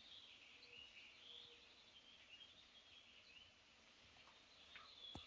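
Near silence: faint outdoor ambience with distant birds chirping continuously, and a soft click near the end.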